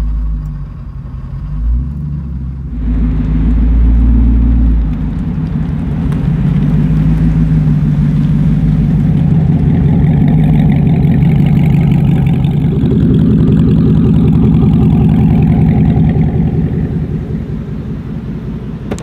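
Devel Sixteen prototype supercar's engine under way: it surges sharply louder about three seconds in, holds a loud, steady pull for most of the time and eases off near the end. This is the prototype's current engine, not the V16 planned for production.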